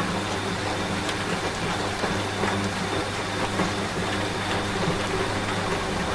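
Rain falling steadily, a dense hiss with scattered drop ticks, over the low steady hum of a washing machine running.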